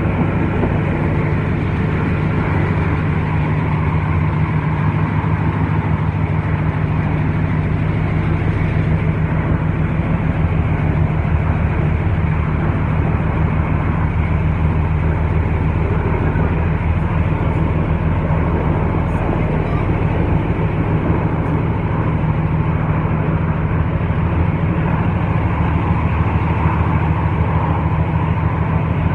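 TranzAlpine passenger train under way: a steady rumble of the running train with a low, even drone underneath.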